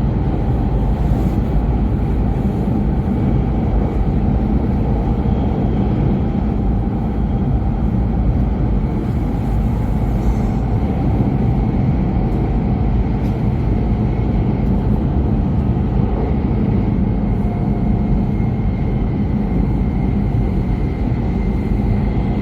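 Steady running noise inside an E5 series Shinkansen car at speed: an even, unbroken low rumble.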